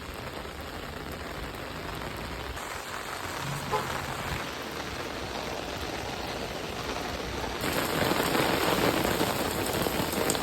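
Heavy rain pelting a car, heard from inside, a steady hiss that grows louder about three quarters of the way in.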